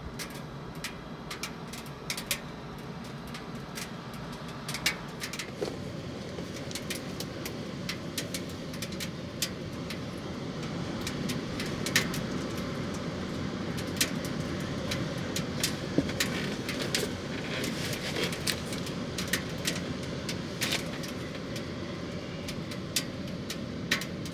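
Wood-burning stove fire crackling, with irregular sharp pops and snaps over a steady low rush of burning that swells a little about halfway through.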